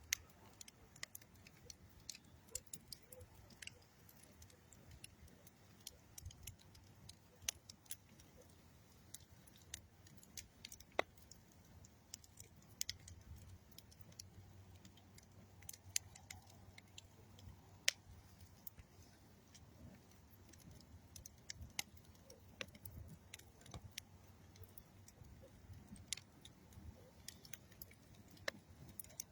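Campfire of old railroad ties and dead tree wood crackling, with irregular sharp pops and snaps over a low, steady rumble of flame.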